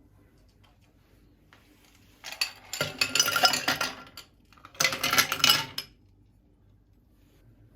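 Tableware clinking and rattling in two bursts: the first starts about two seconds in and lasts about two seconds, the second follows about five seconds in and lasts about a second.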